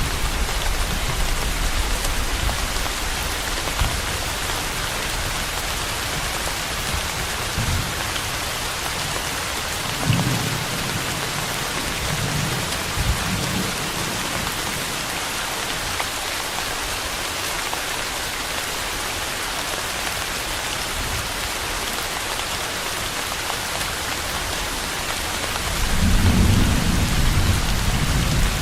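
Steady rain falling, with low rolls of distant thunder: a shorter rumble about a third of the way in and a longer, louder one building near the end.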